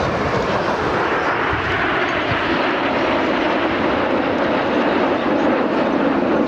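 Jet noise from the Red Arrows' BAE Hawk T1 jets flying the display, a loud steady rush without breaks.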